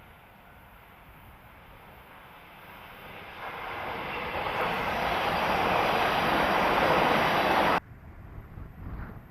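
A train approaching and passing close by, its noise growing steadily louder over about four seconds, then cutting off abruptly near the end.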